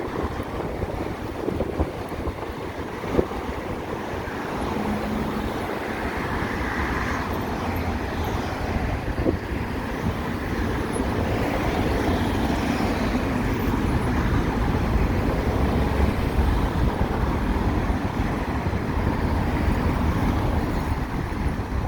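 Wind rushing over the microphone and road noise while riding an electric motorcycle through city traffic, with the surrounding cars running alongside. The low rumble gets louder from about six seconds in.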